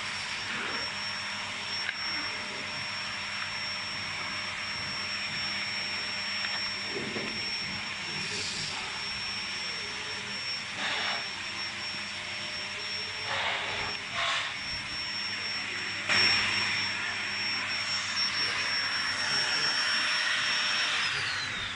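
Vacuum cleaner running with a steady rush of air and a constant high whine, with a few brief rattles partway through. Near the end the whine falls in pitch as the motor is switched off and spins down.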